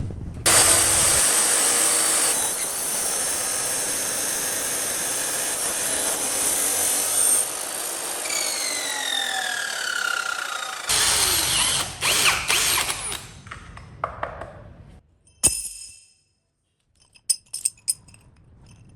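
Handheld power tool running at length for about ten seconds, with a second burst right after, then stopping. A sharp knock follows, then a few light clicks near the end.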